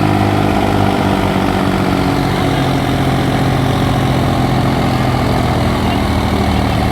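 Tractor diesel engines running steadily with a low, even drone, as they strain to pull a stuck load out.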